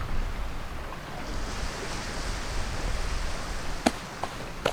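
Ocean surf washing on the shore, with wind rumbling on the microphone. Two or three sharp clicks come near the end.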